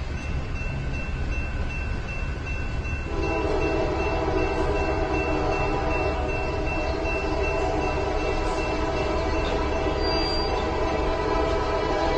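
Train horn blowing one long, steady chord of several notes, starting about three seconds in, over a low rumble of road or engine noise.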